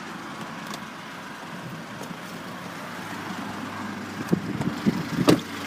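Chevrolet Captiva's 2.2 VCDI turbo-diesel engine idling steadily, with a few short knocks and clicks in the second half.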